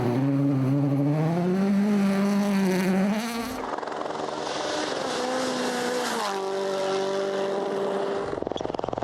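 Rally car engines at full throttle in quick succession. One engine note climbs in pitch for about three seconds. After a cut, another car's engine runs at a steady pitch, drops to a new pitch about two-thirds of the way through, as at a gear change, then a further cut comes near the end.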